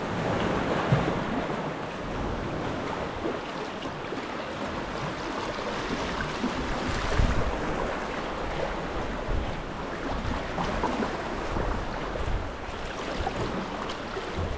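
Wind gusting across the microphone over choppy sea water splashing and lapping, with gusts of low buffeting rumble, as a sea kayak is paddled in Force 3 to 5 wind.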